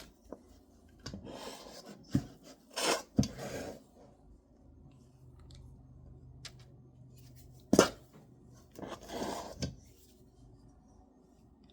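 A metal cookie scoop scraping and clicking as sticky biscuit dough is scooped from a bowl and dropped onto a baking sheet. The sounds come in two short clusters: one in the first few seconds, and another around eight seconds in that opens with a sharp click.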